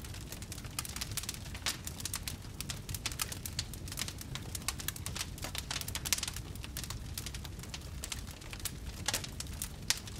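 Campfire burning with dense, irregular crackling and popping of the burning wood over a low steady rumble, with a few louder pops.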